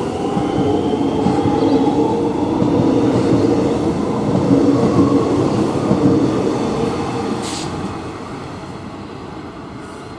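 X'Trapolis electric train running at the station, its motors whining with a pitch that rises over the first few seconds over a rail rumble. A short hiss comes about seven and a half seconds in, and the sound then fades as the train moves away.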